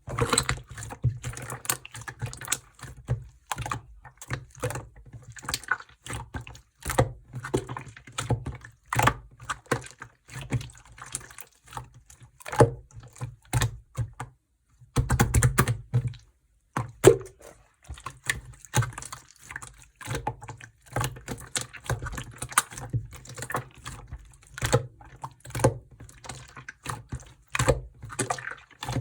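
Yellow slime being squished and pressed by hand, giving a rapid, irregular run of sticky clicks and small pops, with a longer squelching stretch about halfway through.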